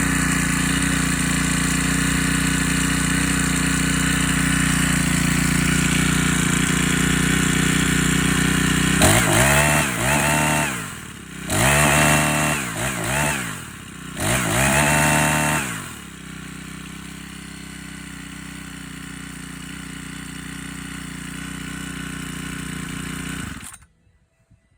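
Four-stroke chainsaw engine running steadily, revved up and let back down three times in the middle, then running lower again until it cuts off abruptly near the end.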